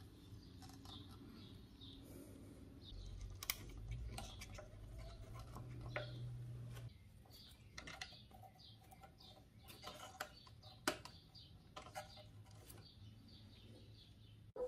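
Faint bird chirps, with scattered sharp clicks and a low rumble for a few seconds in the middle.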